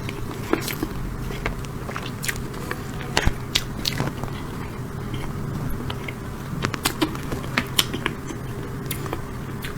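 Close-miked eating of cake: irregular sharp mouth clicks and smacks while chewing.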